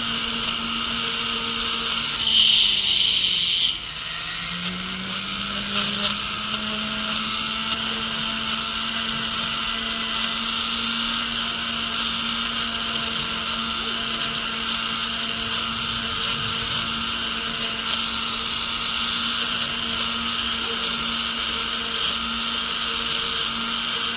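Rotary tool spinning a silicone polishing wheel against the inside of a gold ring's shank, running at a steady pitch. About two seconds in, the pitch sags and a brief high whine comes with it as the wheel bears on the metal, then the speed climbs back and holds.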